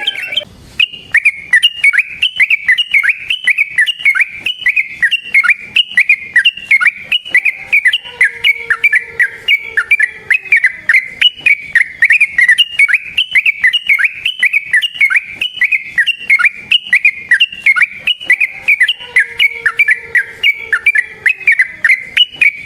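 Yellow-vented bulbul (trucukan) singing a long, unbroken run of fast, loud, repeated whistled notes, several a second, starting about half a second in after a brief break.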